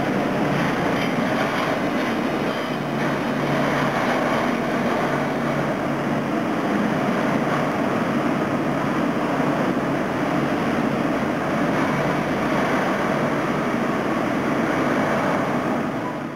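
Tram running through a station: a steady rumble of wheels and motors with a low hum.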